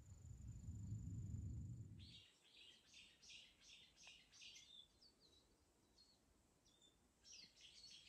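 Small birds chirping in quick series of short, high notes, starting about two seconds in, thinning out to scattered calls, then picking up again near the end. Before the birds begin, a low rumbling noise with a thin, steady insect tone above it; both stop about two seconds in.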